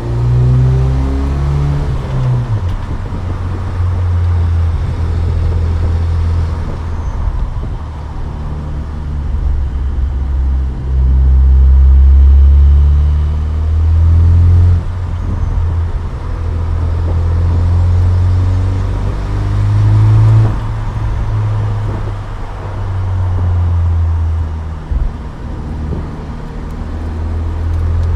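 2007 Saturn Sky Redline's turbocharged 2.0-litre four-cylinder engine, stock intake and exhaust, pulling through the gears while driving: the engine note climbs and then drops sharply at each of several gear changes, loudest about twelve seconds in.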